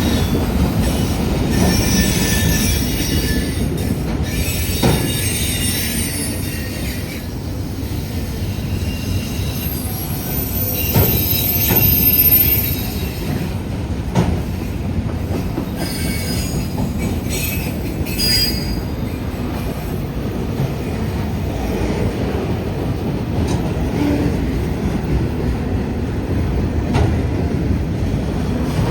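Freight train cars rolling past at a steady pace, a continuous low rumble of wheels on rail. Over it come intermittent high-pitched wheel squeals and occasional sharp clicks from the wheels.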